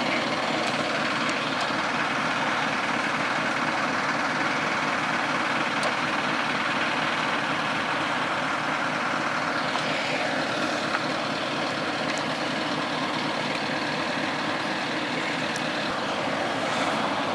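Trucks and road traffic running, a steady, dense noise, with a faint falling whine about ten seconds in.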